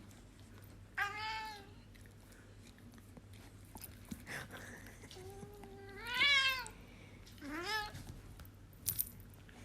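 A cat meowing three times: a short meow about a second in, a longer drawn-out meow in the middle that is the loudest, and a shorter one near the end.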